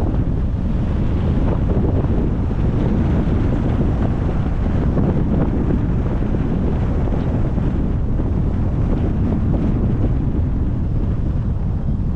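Steady wind rushing over the microphone of a camera on a moving car, mixed with a low rumble of road noise.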